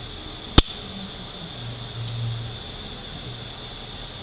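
A single sharp knock about half a second in, from transmission parts being handled during teardown, over a steady background hiss.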